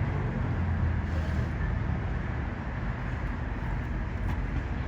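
Street traffic with a car engine running close by, its low rumble strongest in the first second and a half, then easing to a steady traffic hum.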